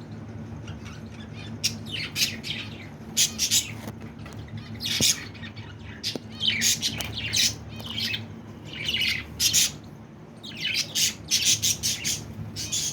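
Pet budgerigars squawking and chirping in quick clusters of short, harsh calls, with a steady low hum beneath.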